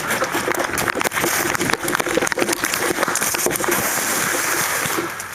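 Dry leaves and brush rustling and crunching under moving feet, with many irregular sharp knocks and scrapes, picked up by an action camera mounted on an airsoft gun.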